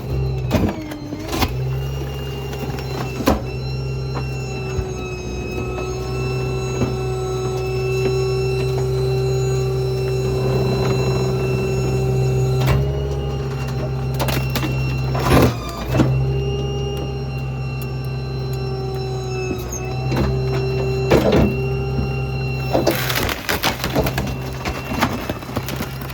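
Small rear-load garbage truck running with its hydraulic packer working: a steady low engine hum under a held whine, broken by several sharp clunks and knocks.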